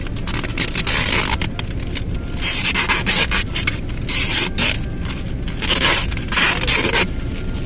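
Paper and packaging being handled, rubbing and scraping in several irregular bursts, over the steady low rumble of a running car with its heater on.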